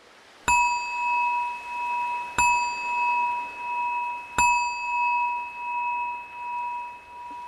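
A meditation bell struck three times, about two seconds apart, each strike ringing on in a clear sustained tone that overlaps the next, marking the start of the practice.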